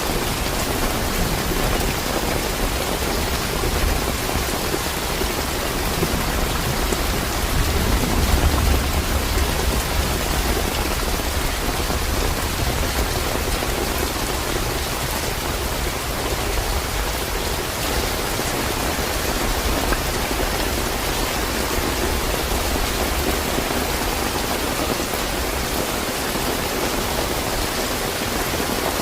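Steady, fairly heavy rain falling as a dense, even hiss of drops. A low rumble of thunder swells about a quarter of the way in and fades again.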